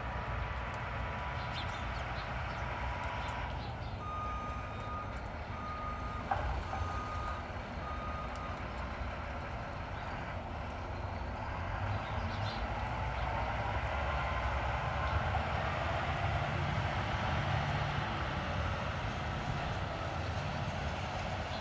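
Garbage truck backing up, its reversing alarm beeping about once a second over the steady rumble of the engine. There is a single sharp bang about six seconds in, and the engine grows louder later on.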